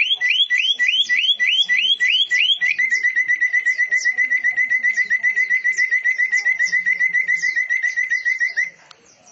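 Caged songbirds singing: a series of rising whistled notes, about three a second, then a fast run of short notes at one pitch, about eight a second, over a layer of higher twittering chirps. The song stops about a second before the end.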